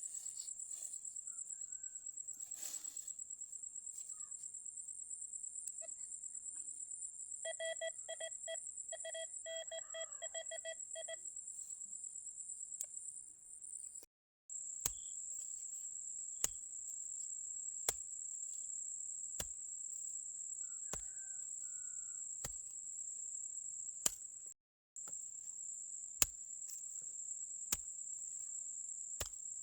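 High-pitched insect chirring, steady and finely pulsed, broken off twice by cuts. A rapid beeping tone sounds for a few seconds near the middle, and sharp single knocks come about every second and a half in the second half.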